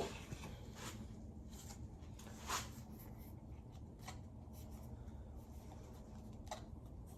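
Sandpaper rubbed by hand on a Yamaha Raptor 700 part: a few short, separate scratchy strokes over a steady low hum.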